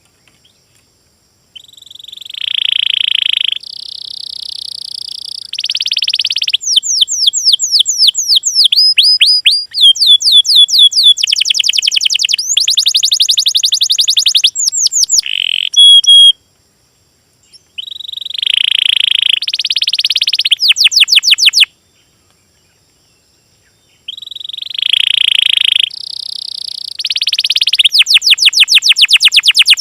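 A small songbird singing loudly in a repeated song phrase. Each phrase has held buzzy notes, then long rapid trills of fast downward-sweeping whistles. The phrase comes three times, with short pauses between.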